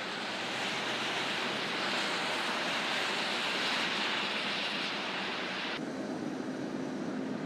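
A steady rushing noise with no clear pitch. About six seconds in it cuts off abruptly and a quieter noise with a low steady hum takes over.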